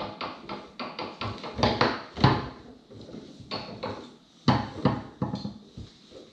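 Rapid sharp clacks and knocks of a Tornado foosball table in play: the hard ball struck by the rod men and banging off the table walls. The loudest hits come about two seconds in and again around the five-second mark.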